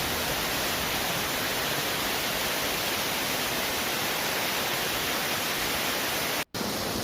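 Large waterfall: a steady, even rush of falling water, broken by a split-second dropout near the end.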